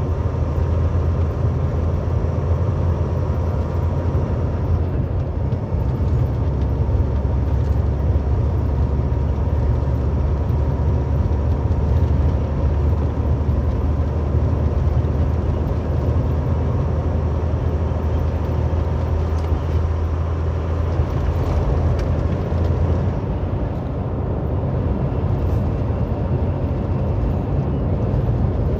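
Semi truck driving on the highway, heard from inside the cab: a steady low engine drone with road noise. Near the end the low drone eases a little.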